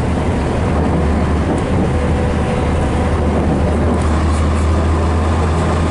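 Scania DS11 six-cylinder diesel engine of a Scania BR111DH / MCW Metropolitan double-decker bus running with a steady low drone.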